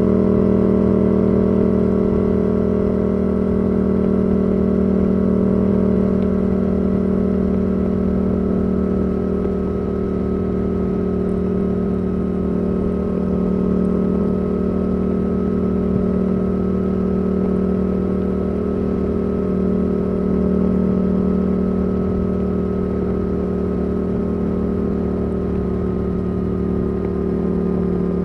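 Yamaha R7's CP2 parallel-twin engine through a Yoshimura R77 exhaust, running at steady cruising revs with a nearly constant note that drifts only slightly in pitch.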